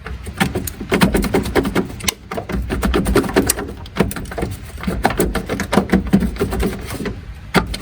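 Irregular clicks, knocks and rattles, several a second, from hands and tools working on truck parts, over a low steady rumble.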